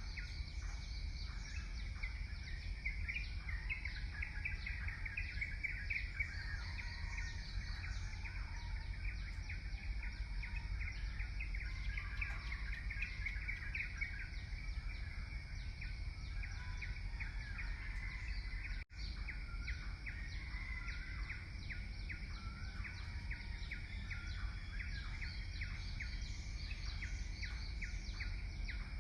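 Many short bird chirps and calls over a steady low outdoor rumble, with a momentary dropout about two-thirds of the way through.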